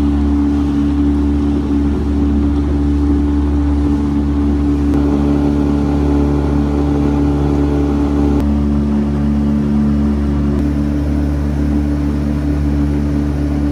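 Boat motor running steadily at speed, its pitch shifting slightly a few times.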